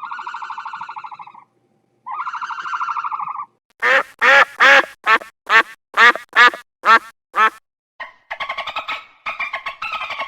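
A duck quacking: two long buzzy calls, then a run of about nine short, loud quacks. Near the end a different pulsed, warbling call starts.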